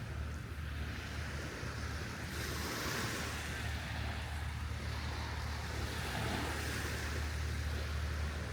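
Surf washing onto the beach, with wind rumbling on the microphone. The wash of the water swells about two seconds in and stays up.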